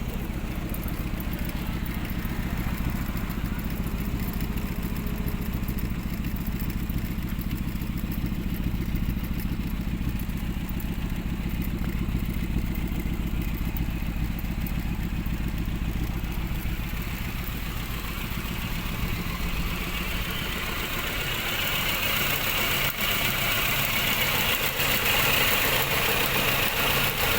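1982 Honda Civic's engine running steadily at idle. About twenty seconds in the sound changes, with a hiss added higher up.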